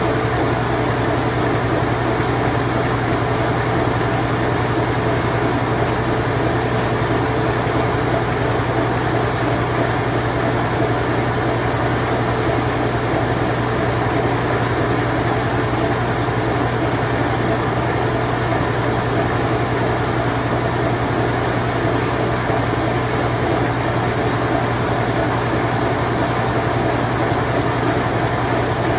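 Vintage Whirlpool Imperial Clean Touch top-loading washing machine running in its spin cycle: a steady low motor hum under a constant mechanical whirr, unchanging throughout.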